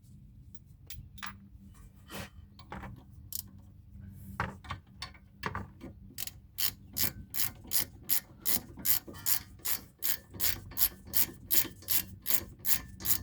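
Socket ratchet clicking as it turns a 17 mm six-point socket on a brake caliper bracket bolt: scattered clicks at first, then a steady run of about three clicks a second from about six seconds in.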